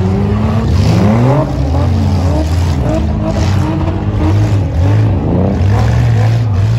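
Several demolition derby cars' engines revving at once, their pitches rising and falling over one another as the cars accelerate, brake and reverse across the dirt arena.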